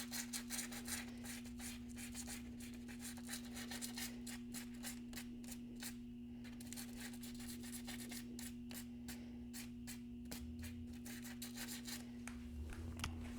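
240-grit sanding pad rubbed back and forth by hand over curb rash on an alloy wheel rim: a fast rhythmic scratching, a few strokes a second, smoothing the damaged edge.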